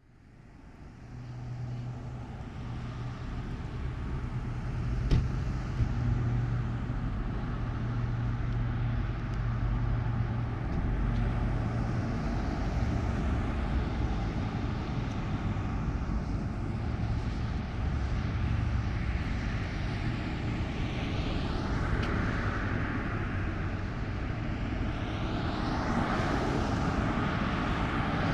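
Steady low drone of a propeller airplane passing overhead. It fades in at the start and swells toward the end, with one sharp click about five seconds in.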